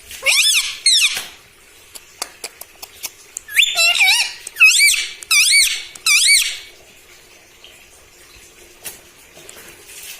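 Rose-ringed parakeet giving shrill calls that swoop up and down in pitch: two at the start, then a run of about five between three and a half and six and a half seconds in.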